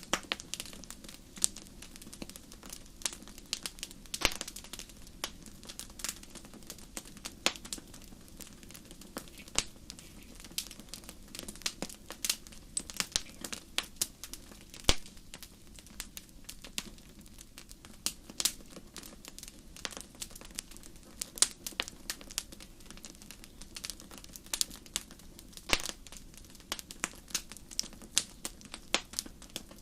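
Wood fire in a fireplace crackling, with frequent irregular sharp pops, a few louder than the rest, over a low steady background.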